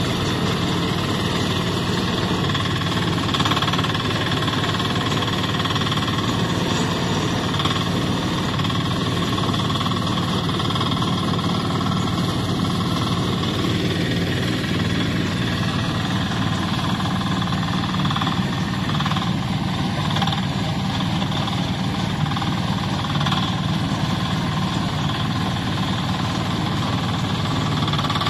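Mini excavator's Koop 192 single-cylinder air-cooled diesel engine running steadily with a rapid knocking beat, at an even level throughout.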